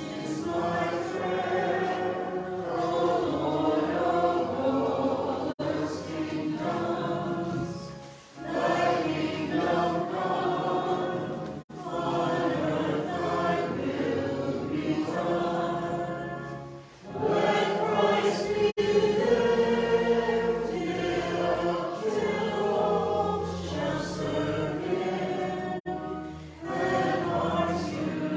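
Choir singing a hymn in long phrases with brief breaks, over a sustained low accompaniment.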